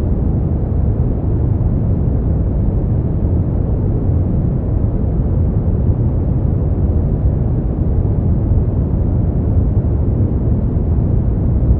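Synthetic noise track for sleep, steady and unchanging, weighted toward the bass with little treble.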